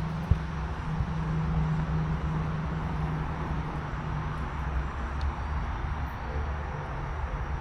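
Steady low rumble of distant road traffic, with a low hum over it that fades out about five seconds in.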